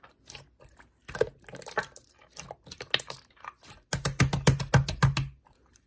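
Irregular run of light clicks and taps that speeds into a dense flurry about four seconds in, with a low hum under the flurry.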